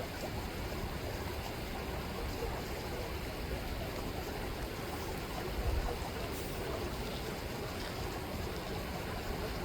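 River water rippling and flowing in a steady rushing wash, with a brief low rumble about six seconds in.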